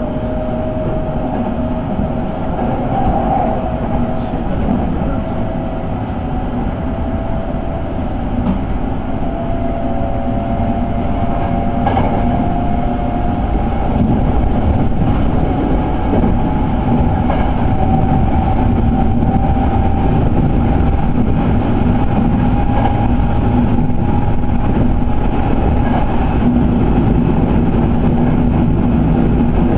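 Electric commuter train running, heard from inside the passenger car: a steady rumble of wheels on rail with a faint motor whine that slowly rises in pitch as the train gathers speed.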